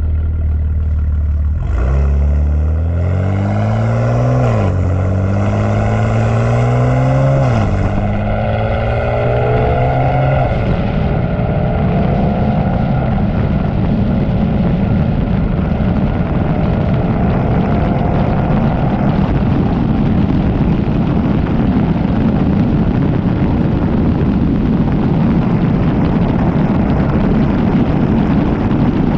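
Tuned BMW G80 M3 Competition's twin-turbo 3.0-litre inline-six, fitted with catless downpipes and an aftermarket exhaust, accelerating hard through the gears: three rising pulls, each cut by an upshift about four, seven and ten seconds in. After that comes a steady loud rush of noise with the engine note climbing slowly underneath.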